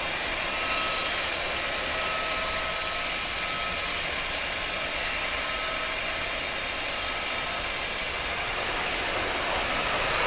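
Jet engines of a Qatar cargo aircraft running with a steady rush and a faint whine, growing a little louder near the end.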